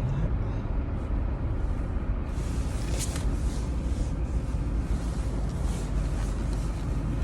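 Steady low rumble of a car's engine and tyres heard from inside the cabin, with a single short click about three seconds in.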